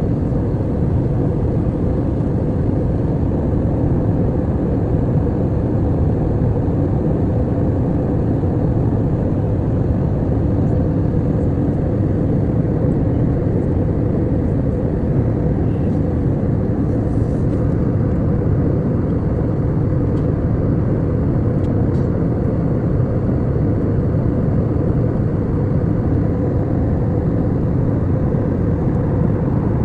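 Airliner cabin noise in flight: a steady, loud low drone of engines and rushing air, unchanging throughout, with a faint steady hum on top.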